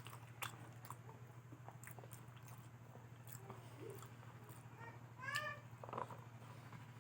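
Close-up eating sounds of spicy fried potatoes: soft chewing with scattered small clicks and crunches. About five seconds in, a short high vocal sound rises and falls in pitch. A steady low hum lies under it all.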